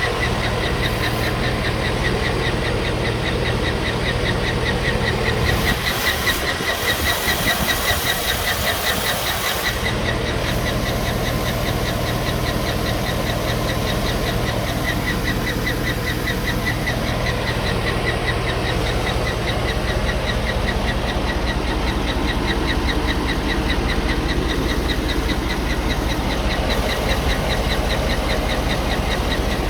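2007 Cadillac Escalade V8 engine running with a fast, steady ticking over the engine sound, which the owner puts down to bad lifters and camshaft noise.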